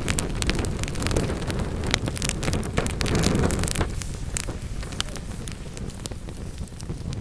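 Wood fire in a fireplace crackling and popping, with many sharp snaps over a low rushing rumble. The rumble dies down from about halfway through, leaving a quieter bed with scattered crackles.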